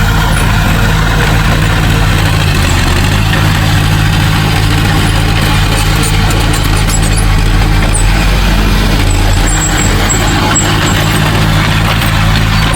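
Heavy construction machine's diesel engine running steadily with a low drone, its pitch shifting slightly about three seconds in and again near nine seconds.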